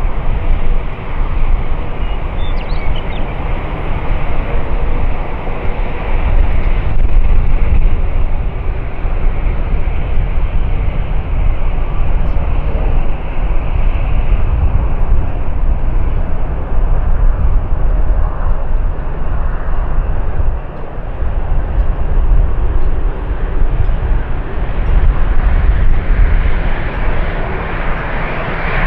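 Private jet's engines and rushing airflow during a landing approach, a steady loud rumble with hiss that briefly drops about two-thirds of the way through and grows brighter near the end.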